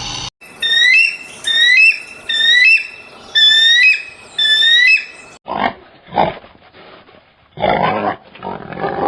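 An animal's calls: a quick run of about eight short, high squeals, each rising in pitch, then four harsh snort-like bursts in the second half.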